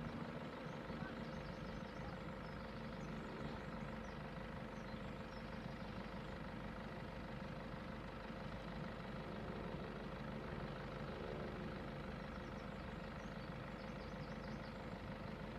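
A motor vehicle's engine idling steadily, a low hum that holds one pitch throughout.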